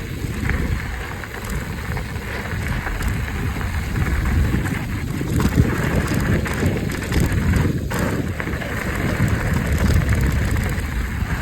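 Wind buffeting the microphone over the steady rumble of a mountain bike's tyres rolling on a dirt trail during a ride, with a few short ticks and knocks.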